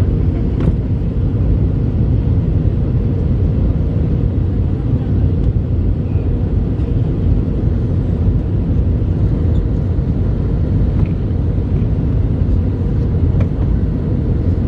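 Steady low rumble of an Airbus A321-200's engines and airflow, heard inside the passenger cabin.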